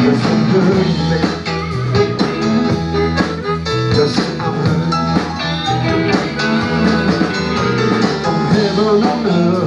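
Blues trio playing live: guitar-led blues with bass and a steady beat.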